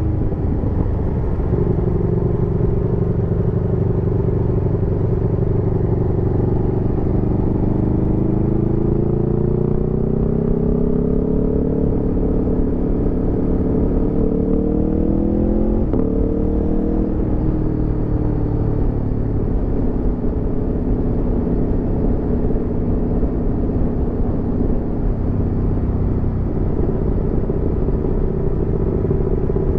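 Aprilia Tuono V4 motorcycle's V4 engine running under way. It holds a steady speed, then pulls up through the revs for several seconds. About sixteen seconds in, a quick upshift drops the pitch, and it cruises steadily after that.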